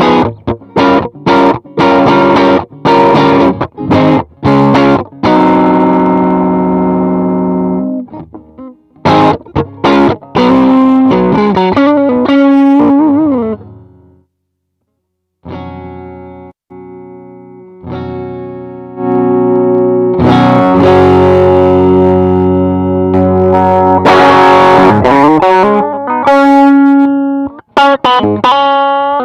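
Electric guitar played through a Zendrive-style overdrive pedal, giving a lightly distorted tone. Short choppy chords open, then a chord rings out and fades. After a brief gap near the middle come single notes and long ringing chords, with short strummed chords again near the end.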